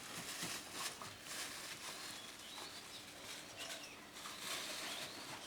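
Faint bird chirps over a rustling outdoor background, with scattered light clicks.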